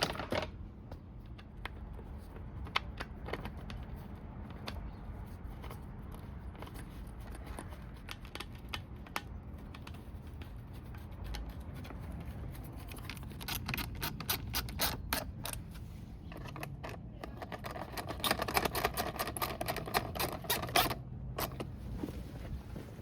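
Light clicks and clatter of dirt-bike plastics and hardware being handled and fitted back on, with two busier spells of rapid clicking in the second half, over a faint steady low hum.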